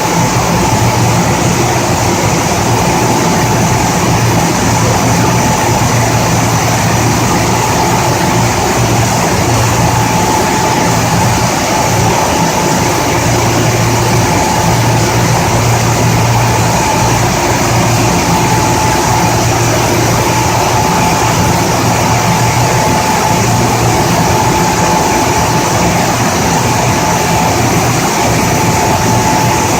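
A 2400 mm industrial flat-glass washing machine running steadily: a constant low hum with a steady whine above it over an even wash of machine noise.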